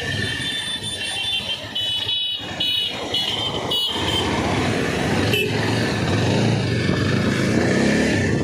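Motorcycle engine running on the move, getting a little louder. A vehicle horn honks in several short blasts during the first four seconds.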